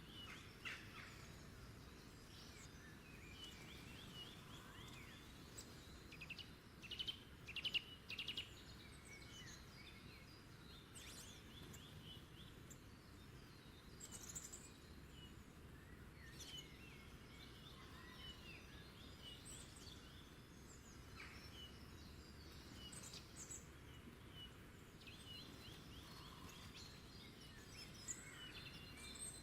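Faint birdsong: several small birds chirping and trilling, with a louder run of calls about seven to eight seconds in, over a soft steady background hiss.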